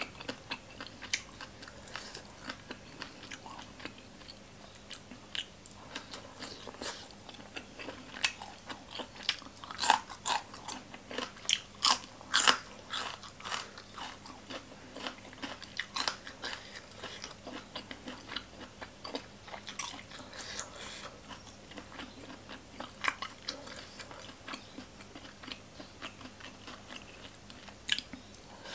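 Close-miked eating: crisp crunching bites and wet chewing of spicy green papaya salad and boiled pork offal, with many irregular sharp mouth clicks. The crunching is loudest about ten to thirteen seconds in.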